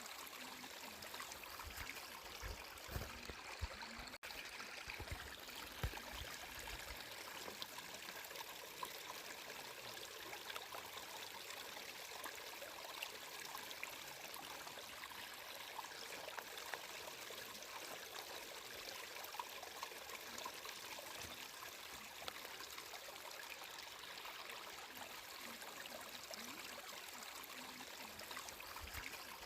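Water flowing in a stream, a steady trickling and splashing with small scattered drips, and a few dull low thumps in the first few seconds.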